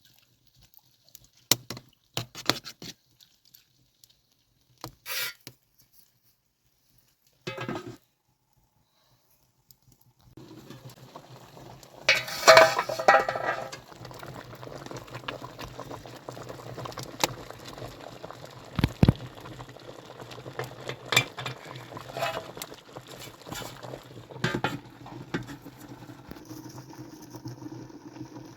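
Cooking sounds: scattered clinks and knocks of pots, dishes and utensils. From about ten seconds in a steady hiss sets in under continued clatter, loudest at about twelve seconds.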